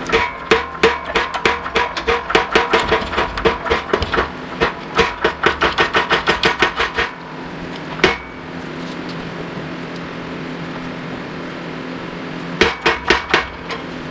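Fast run of sharp, ringing metal-on-metal knocks, about four a second, stopping about seven seconds in. A single knock follows, then a steady low hum, and another short run of knocks near the end. This is metal tool work during pressing a wheel bearing out of a steering knuckle.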